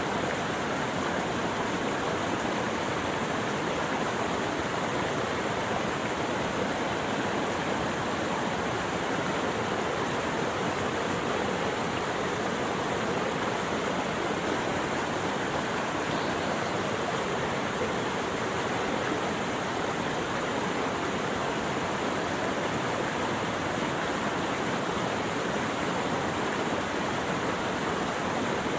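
Steady rushing water, like a stream or waterfall, an even unbroken wash of noise with no birdsong or other sounds standing out.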